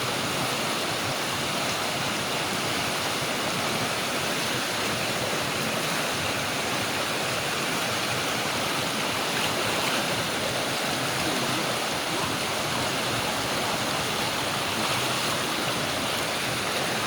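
River water rushing and splashing over stones: a steady, even rush.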